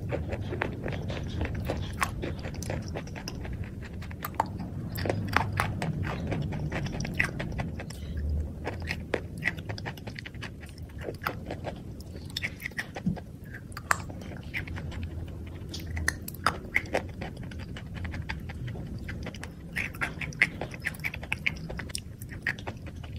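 Close-up chewing of a crumbly white food, with many sharp crunches and clicks scattered irregularly over a low mouth rumble.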